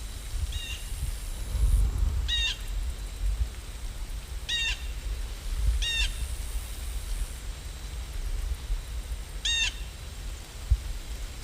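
A bird calling five times in short, harsh calls spread unevenly, over a steady low rumble.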